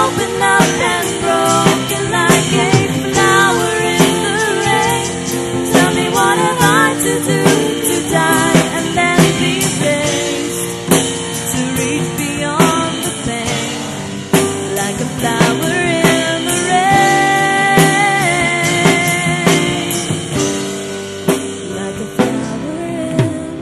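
Pop-rock song with a female lead vocal over drum kit and guitar, the voice holding one long note about three-quarters of the way through.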